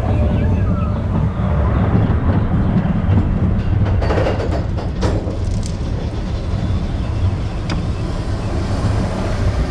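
Expedition Everest roller coaster train running along its track with a steady low rumble and rattle. Several sharp clicks come about four to five seconds in.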